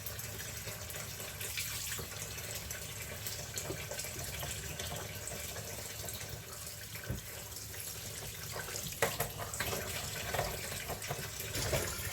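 Water running steadily from a kitchen mixer tap while its worn hot-side ceramic gland is unscrewed with the hot supply still on, with a few short clicks and knocks near the end.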